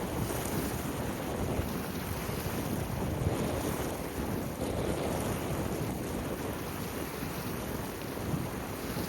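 Strong wind, 4–5 Beaufort, blowing on the microphone as a fluttering low noise, over the sound of waves on the water.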